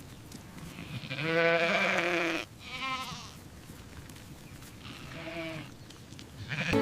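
Livestock bleating: three calls, the first long and quavering about a second in, a short one straight after, and another around five seconds in.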